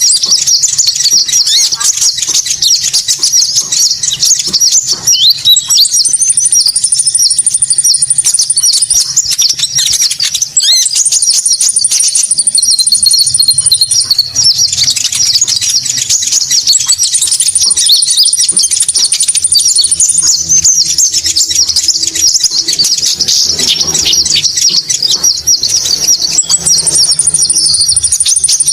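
Konin birdsong from a bird-lure recording: dense, high chattering twitter throughout, with a fast, high trill lasting about three seconds that comes back four times.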